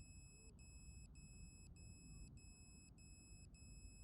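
Near silence, with faint high-pitched electronic beeping that repeats about every half second over a low hum.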